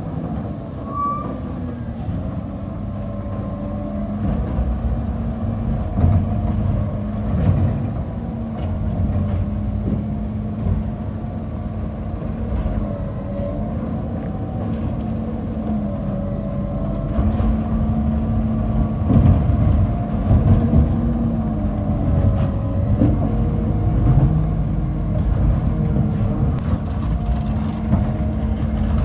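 Garbage truck running, a steady engine drone with a wavering whine above it and scattered knocks and clunks, growing somewhat louder about halfway through.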